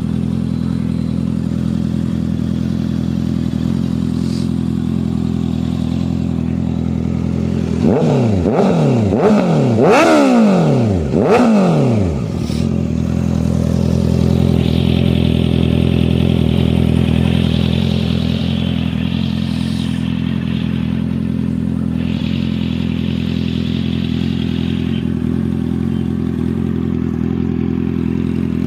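Honda CBR650F inline-four idling steadily through an aftermarket SC Project exhaust, blipped four times in quick succession about eight seconds in, each rev rising and dropping straight back, then settling back to idle.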